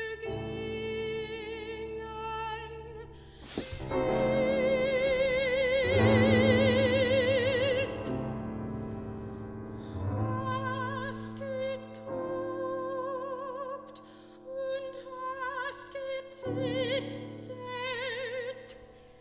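Operatic soprano singing long held notes with wide vibrato, accompanied by piano chords.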